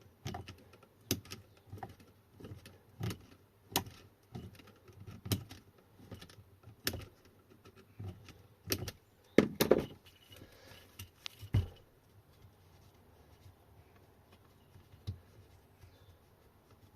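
Irregular clinks, clicks and taps of hand tools and small metal parts being handled while fasteners are worked off an e-bike hub motor, with a louder cluster of knocks over a second or so about two-thirds of the way through, then only a few faint ticks.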